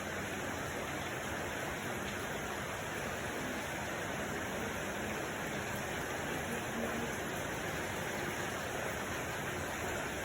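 Steady, even rushing noise with no rhythm or distinct events.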